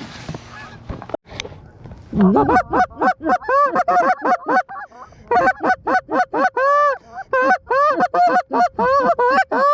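Goose call blown by a hunter: a fast run of honks and clucks, starting about two seconds in, with a brief pause midway and one longer drawn-out honk, calling to incoming geese.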